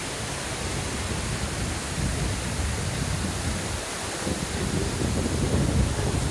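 Waterfall: a steady rush of falling water, with a deeper rumble that swells about two seconds in and again near the end.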